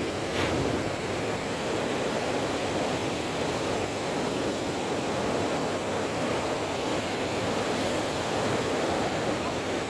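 Rough sea: surf breaking and rushing in a steady, unbroken wash of noise.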